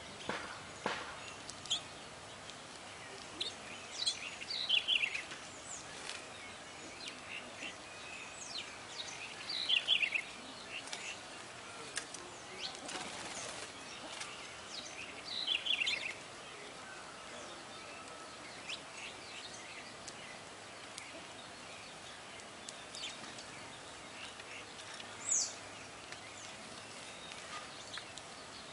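Small wild songbirds chirping. Short bursts of quick high notes come every few seconds, with one higher call near the end, over a steady background hiss.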